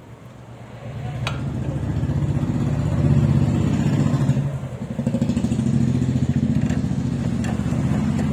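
A motor vehicle engine running close by. It grows louder over the first two seconds, dips briefly about halfway through, then runs on with a low, pulsing hum.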